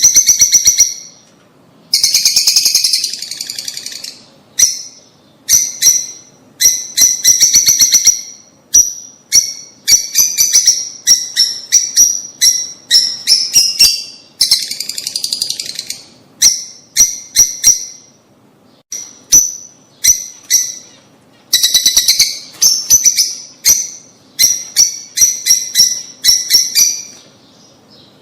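Lovebirds chattering: quick runs of sharp, high chirps in short bursts, broken by brief pauses.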